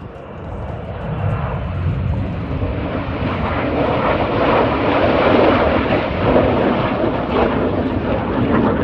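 Jet noise from Red Arrows BAE Hawk T1 trainers as they fly past in a display pass. It swells over the first few seconds, is loudest about halfway through, then eases slightly.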